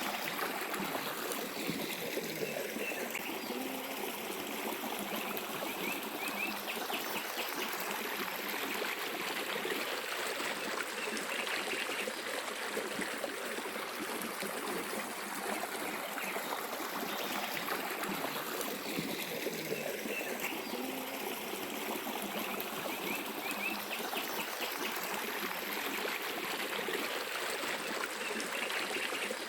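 A small mountain stream flowing and trickling steadily over stones, with a few brief bird chirps now and then in the background.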